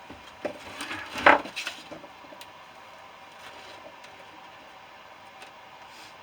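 Knocks and clatter of hard objects being handled and set down, a quick cluster with the loudest knock about a second in, then a few faint clicks.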